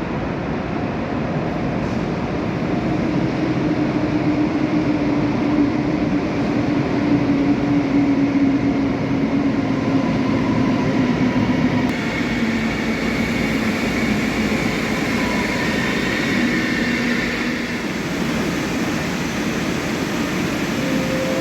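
Passenger train running into a station platform. Its rumble carries a whine that slowly drops in pitch as the train slows, and a higher whine joins about halfway through.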